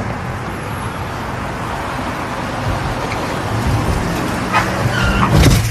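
Vehicle and road noise, steady and slowly growing louder. Near the end come short squeals and a loud, sudden jolt.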